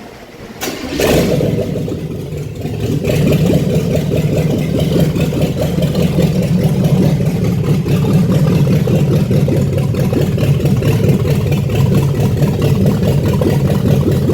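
Cadillac Coupe DeVille engine cranking and catching about a second in, rising over the next couple of seconds, then running steadily and loudly. It runs unmuffled because no exhaust is fitted, on ignition timing just changed by moving the spark plug wires one notch.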